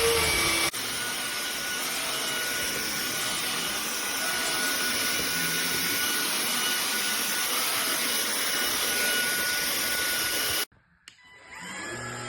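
MONSGA cordless stick vacuum cleaner with a brushless motor running steadily: a loud rushing hiss with a thin high whine. It cuts off suddenly near the end, and a faint hum follows.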